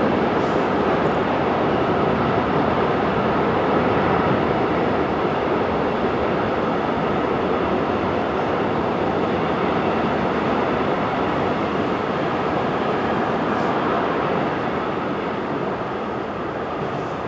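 Freight ore train of VTG wagons rolling past steadily: a continuous rumble and clatter of wheels on rail that eases slightly near the end.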